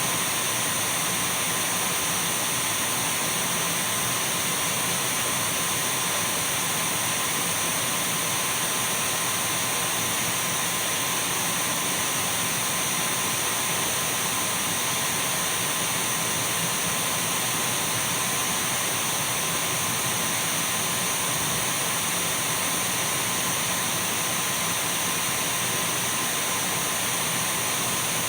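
Dyson V12 cordless stick vacuum cleaner running steadily: an even rush of air with a thin, steady high whine and a fainter steady tone lower down, unchanging throughout.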